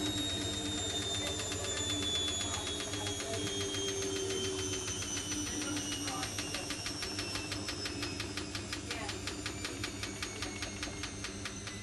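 Zanussi Lindo 100 washing machine spinning down: the motor's whine falls steadily in pitch while the drum's rhythmic ticking slows.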